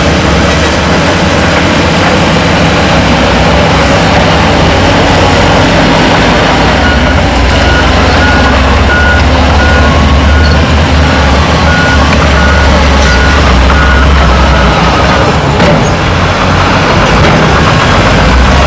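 Heavy diesel earthmoving machines running under load, with a reversing alarm beeping steadily at one pitch for several seconds in the middle as a machine backs up.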